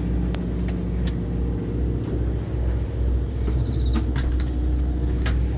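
A fishing boat's onboard motor running, a steady low drone, with a few faint clicks over it.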